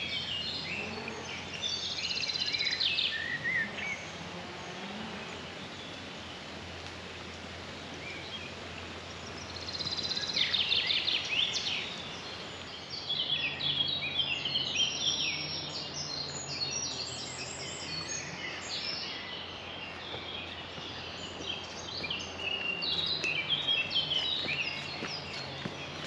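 Songbirds singing in several spells of quick high chirps and trills, over a steady low background hum.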